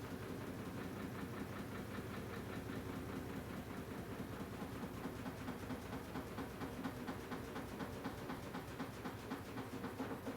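AQUA washing machine with a direct-drive inverter motor running mid-cycle: a steady motor hum with a quick, even churning pulse that becomes more distinct in the second half.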